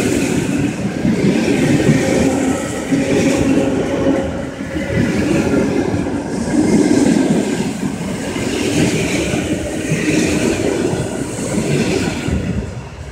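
Suburban electric multiple unit running along the line, with its wheels clattering over the rail joints and air rushing past an open window beside the carriages. The noise swells and eases every second or two.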